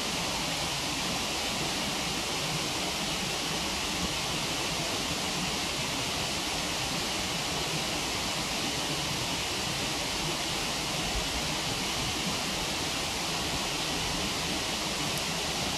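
Steady rushing of a waterfall, with an occasional faint crackle from the wood fire.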